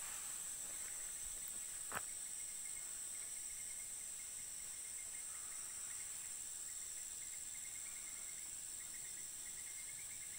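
Insects droning in a steady, high, even tone, with faint rapid chirping throughout and a single sharp click about two seconds in.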